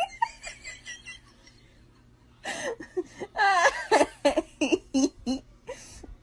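A person laughing in rhythmic bursts: a short run at the start, then a louder, longer bout from about two and a half seconds in.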